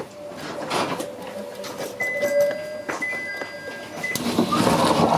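A train easing to a stop at a station, heard from behind the driver's cab: a steady brake squeal, with higher squeals coming and going about halfway through, then a louder rush of noise building near the end.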